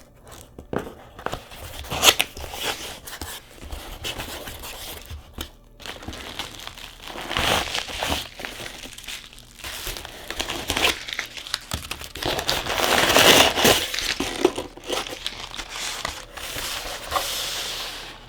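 Packaging being unwrapped by hand: irregular crinkling and tearing of wrap around graded card slabs, with scattered sharp clicks, heaviest a little past the middle.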